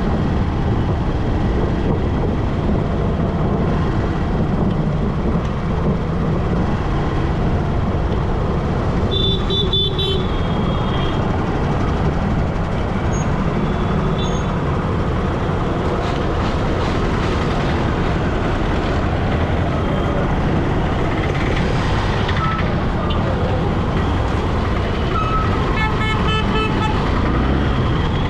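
Steady traffic and engine noise heard while riding through city traffic, with a vehicle horn honking about ten seconds in and another horn sounding a run of short toots near the end.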